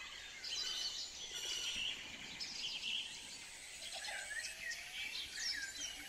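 Birds chirping in the background: many short, high calls and quick rising and falling chirps, over a faint low hum.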